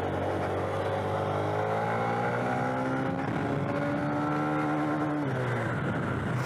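Small motorcycle engine pulling away and accelerating, its note rising steadily for about four seconds, then dropping suddenly just past five seconds as the rider changes up a gear.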